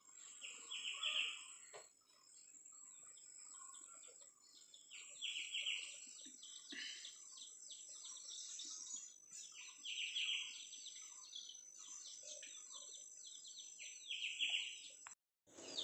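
A bird singing the same short chirping phrase four times, about every four to five seconds, over a steady high insect drone.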